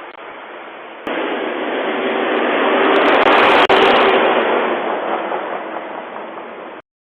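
A truck driving past: its noise jumps up about a second in, builds to a loud, distorted peak around the middle, then fades away, with a steady low hum running through it. The sound cuts off suddenly near the end.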